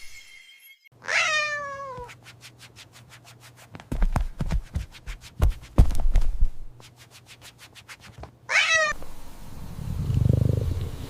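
A cat meows twice, each meow falling in pitch, about seven seconds apart. Between the meows comes a steady rapid ticking, about six ticks a second, with a few thumps. Near the end there is a low rumbling.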